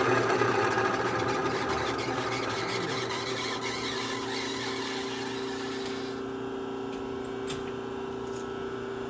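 Milling machine running with a steady motor hum; a rougher, hissing machining noise over it fades and drops away about six seconds in, leaving the hum.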